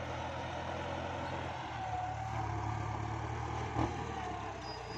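Kubota MU5702 tractor's diesel engine running steadily while ploughing, with one short knock nearly four seconds in.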